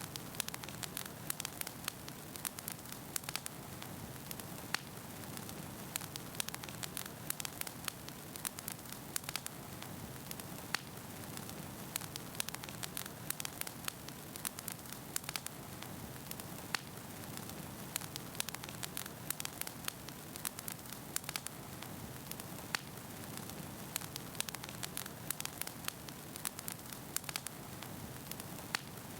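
Wood fire burning in a fireplace: a steady hiss with frequent sharp crackles and pops of burning firewood, several a second.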